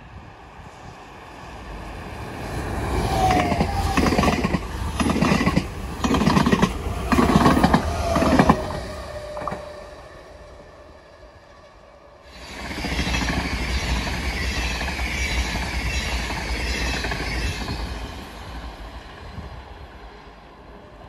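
A train passes at speed, its wheels beating out a run of heavy, evenly spaced thumps about a second apart. Several seconds later a second, smoother rushing pass with a strong hiss follows and fades away.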